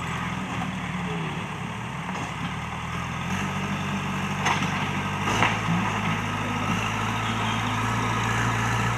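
JCB backhoe loader's diesel engine running at working speed, its pitch stepping up a little about three seconds in and again about five seconds in, with a couple of sharp knocks in between.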